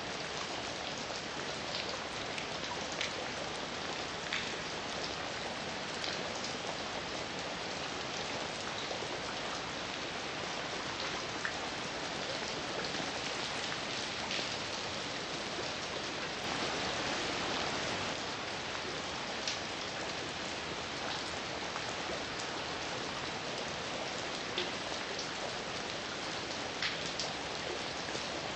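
Steady heavy rain falling on a surface, with scattered louder drips and a brief swell in intensity about two-thirds of the way through.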